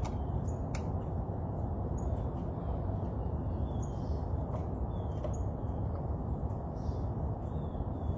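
Birds chirping, short high calls every second or so, over a steady low background rumble.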